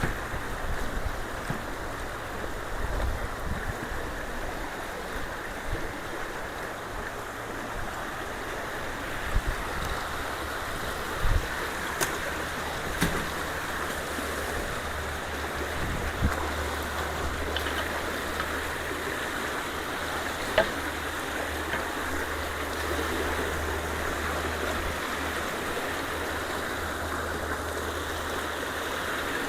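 Ditch water rushing steadily through a culvert, with a few sharp knocks scattered through it and a low rumble joining about halfway.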